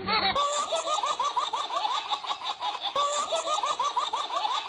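Laughter sound effect: a rapid, high-pitched laugh of about five or six strokes a second, repeating as a loop about three seconds in.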